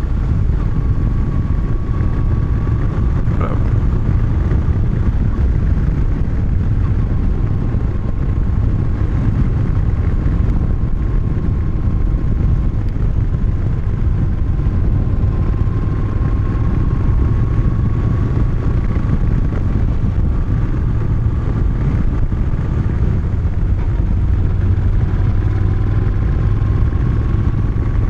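Moto Guzzi motorcycle riding at a steady cruise, its engine running evenly under road and wind noise, with a faint steady whine that drifts slightly in pitch.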